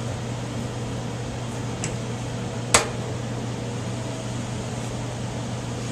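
Steady low hum, broken about halfway through by one sharp knock as a wooden honeycomb frame is set down into the honey extractor.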